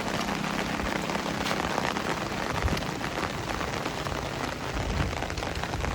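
Steady rain falling, with the ticks of many individual drops hitting surfaces nearby.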